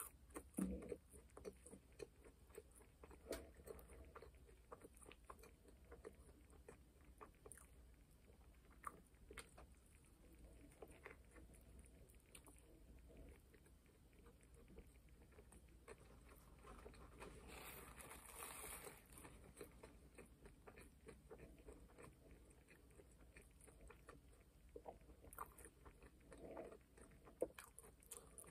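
Faint close-up chewing of a McDonald's burger, with many small mouth clicks and a low hum underneath.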